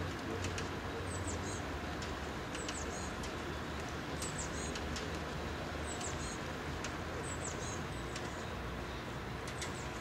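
A small bird chirping in short high notes, repeated every second or two, over a steady low background rumble.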